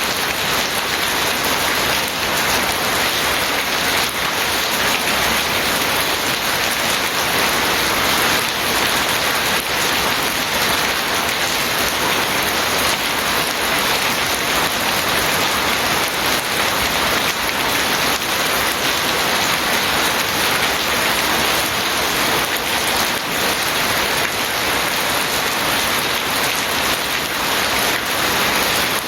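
Steady, heavy rain falling on surfaces: a dense, even hiss of drops with no let-up.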